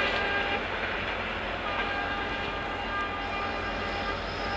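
Express passenger train running at speed, heard from a coach doorway: steady rumble of wheels on rail with a diesel locomotive working ahead. A train horn is sounding at the start and fades within the first second, leaving the steady running sound.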